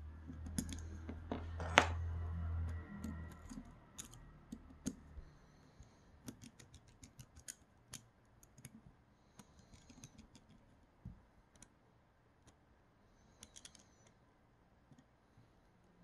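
Small plastic and metal parts of a Creality Sprite 3D-printer extruder clicking and tapping as they are handled by hand. A low hum runs through the first few seconds, and the sharpest click comes about two seconds in.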